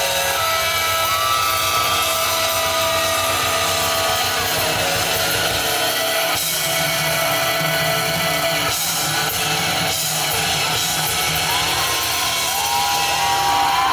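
Rock band playing live, an instrumental passage led by electric guitar with long, bending sustained notes and no singing.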